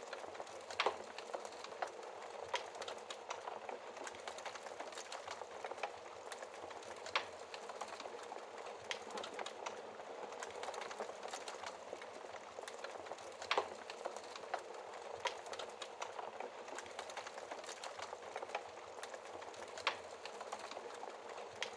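Wood fire in a fireplace crackling steadily, with a dense patter of small snaps and several louder pops scattered through.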